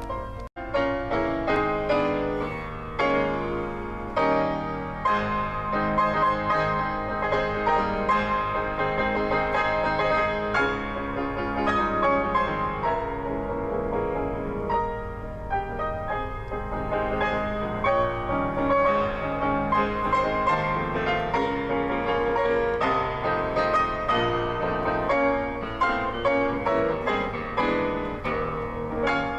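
Piano music: a flowing run of notes. A steady low hum sits underneath.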